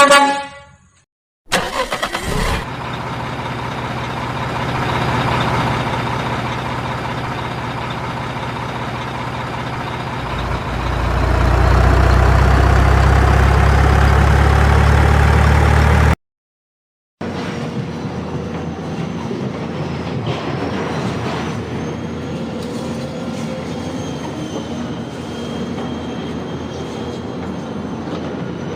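Heavy truck sounds across edited cuts: a short horn blast at the start, then the truck's engine running under load, getting louder and rising in pitch about ten seconds in. After a sudden break, a steadier vehicle noise carries on.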